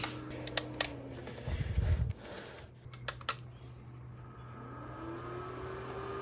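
Small electric fan motor of a mini fan humidifier winding down, its hum falling in pitch. Several sharp clicks and a low thump follow. The motor then spins up again, its hum rising in pitch near the end.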